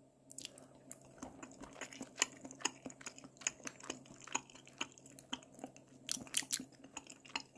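Close-up mouth sounds of chewing boiled top-shell sea snail meat: a quiet run of short, irregular wet clicks, several a second.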